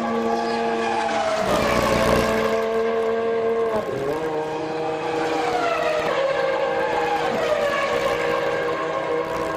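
Formula One V10 engines running at high revs, several notes held steady and then dropping in pitch as cars go past, about a second and a half in, near four seconds and again from about six seconds. A loud rush of noise comes about a second and a half in.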